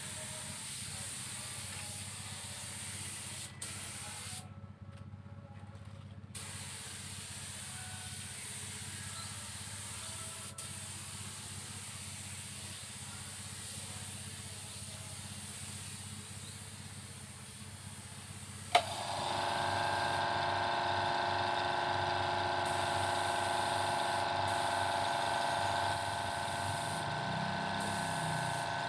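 Paint spray gun hissing steadily while a finish coat is sprayed, with a brief stop about five seconds in. About nineteen seconds in, a click and a motor starts up, running steadily with a hum louder than the spray.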